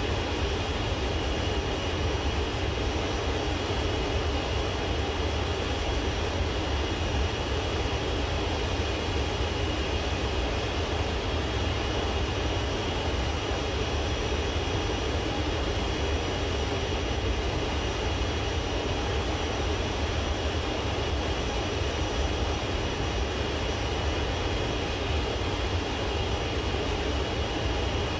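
Aeroplane engines running steadily, a constant low rumble under a high whine that holds one pitch.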